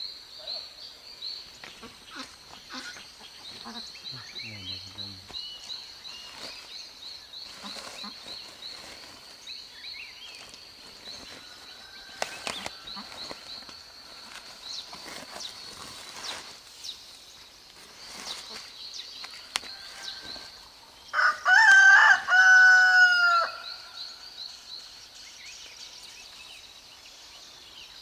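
A rooster crows once, loud, for about two seconds near the end. Under it runs a steady high pulsing chirp, with scattered rustles and clicks.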